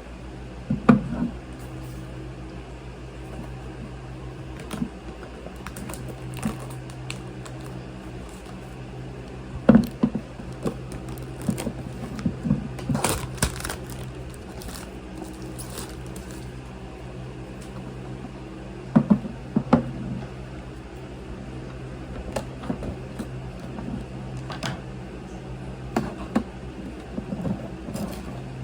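Steady low hum of a running appliance, with scattered clicks and knocks of small objects being handled, loudest in clusters about a second in, around ten seconds, and around nineteen seconds.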